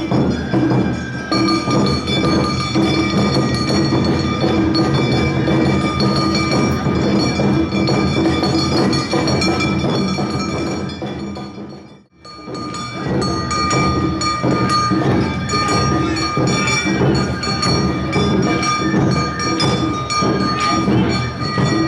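Live Awa odori band (narimono) playing in the street: drums with steady bell-like ringing tones over the rhythm. The music fades out about twelve seconds in and another troupe's band starts up straight after.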